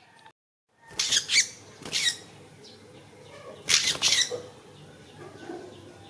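A small trapped bird giving loud, harsh squawks in two pairs, about a second in and again near four seconds, with faint high chirps in between.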